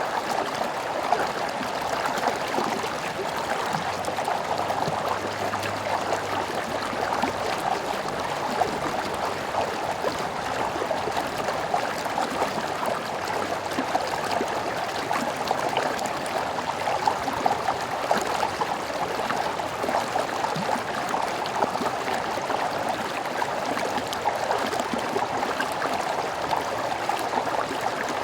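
A stream running over rocks with a steady, even rush and babble.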